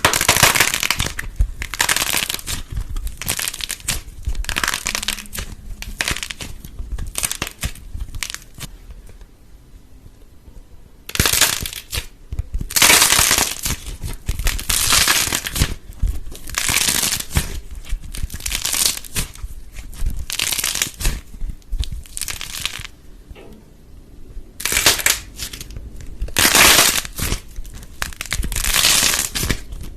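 Crackling, crunching sounds in repeated short bursts, with a quieter stretch about ten seconds in.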